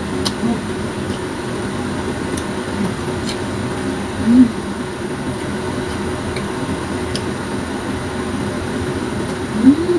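Grapes being chewed with the mouth closed: a few faint wet clicks and two short hummed "mm" sounds, about four and nine and a half seconds in, over a steady hum of a fan.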